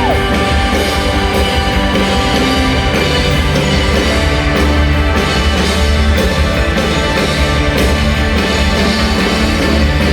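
Rock band playing live through a loud PA, a steady passage with drums and sustained guitar and keyboard tones and no singing.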